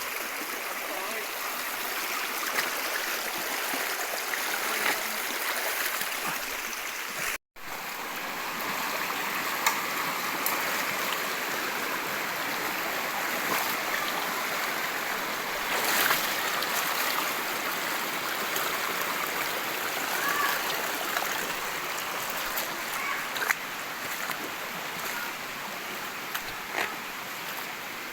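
Stream water flowing steadily, with a few small splashes; the sound drops out for a moment about seven seconds in.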